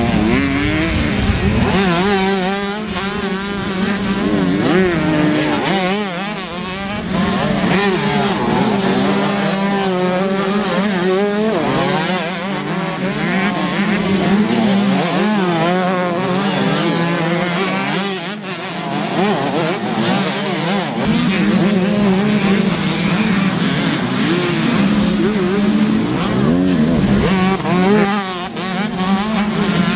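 Two-stroke 125 cc motocross bikes racing, several engines revving up and down continually with gear changes and throttle, over a steady engine drone.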